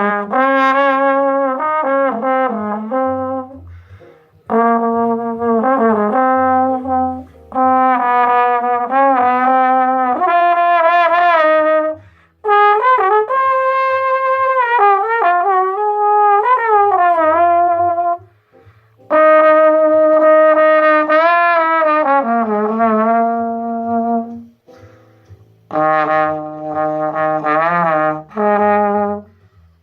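A brass instrument playing an improvised jazz solo in phrases of held and moving notes, with short breaks between phrases.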